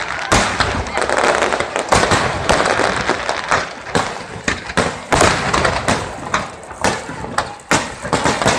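Aerial fireworks bursting in quick, irregular succession: many sharp bangs and crackles, thinning a little towards the end.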